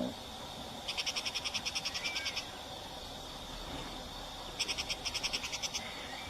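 A small animal calling: two trains of rapid high chirps, about ten a second, each lasting about a second and a half, with a steady high-pitched trill running underneath.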